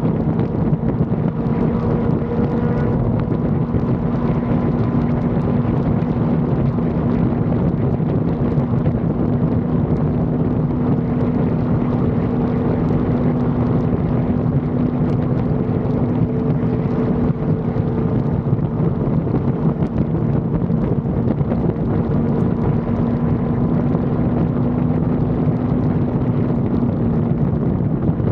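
Sport motorcycle engine running at steady revs while riding, with wind rushing over the microphone.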